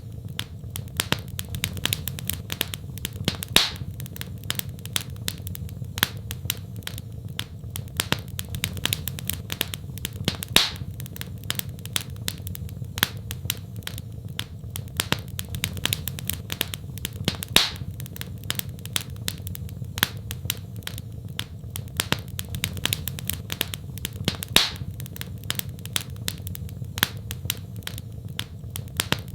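Wood fire in a fireplace crackling: a constant patter of small snaps with a few louder pops, over a steady low rumble of the burning fire.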